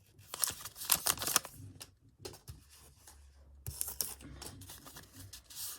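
Crinkling and tearing of a trading-card pack wrapper, with the cards being handled: a run of irregular soft rustles and clicks.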